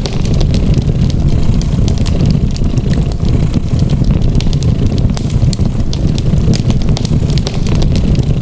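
A cat purring as a steady low rumble, mixed with a fireplace fire crackling with frequent small sharp pops.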